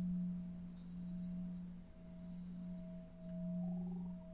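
Sustained low meditation drone tone with a fainter higher tone above it, swelling and dipping in volume every second or so.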